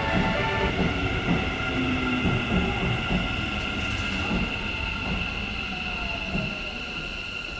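Keikyu electric train pulling into the station and braking. A steady high squeal from the wheels and brakes builds from about three seconds in, while a lower motor whine falls in pitch as the train slows, over the rumble of the cars.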